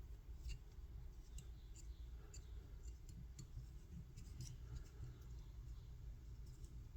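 Faint, irregular small clicks and ticks of fly-tying tools and materials being handled at the bench, over a low steady hum.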